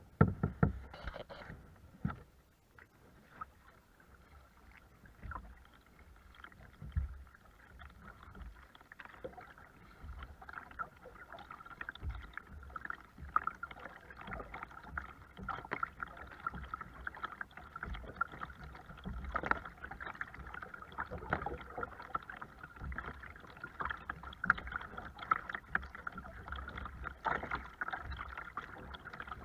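Water splashing and sloshing around a kayak, with irregular knocks against the hull.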